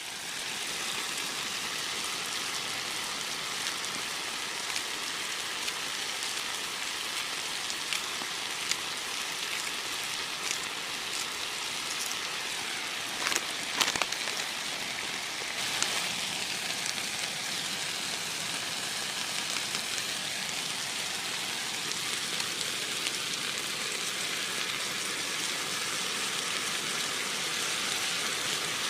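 Steady rain falling, an even hiss with scattered drop ticks and a few louder taps about halfway through.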